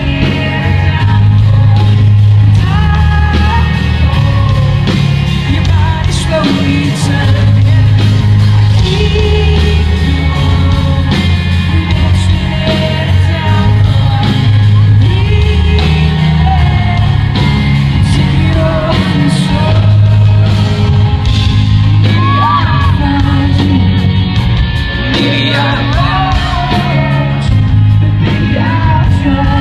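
Rock band playing live with a singer, the song carried by loud, heavy bass notes under the vocal.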